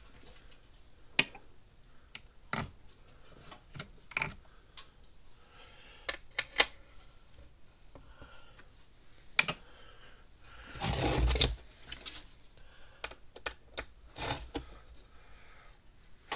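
Irregular clicks, taps and knocks of hand tools and parts being handled while taking apart a solar electric fence charger, with a rougher scraping rattle lasting about a second near the middle.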